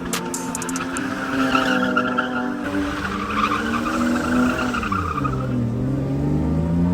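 A car engine held at high revs while its tyres squeal. About five seconds in, the revs drop sharply and then climb again.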